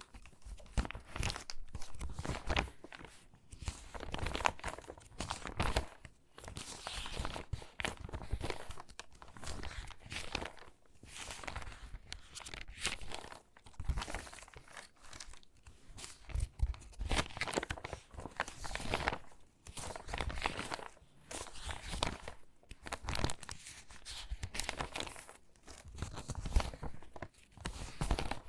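Crinkly water-damaged magazine pages being handled and sorted by hand, rustling and crackling in bursts every second or two.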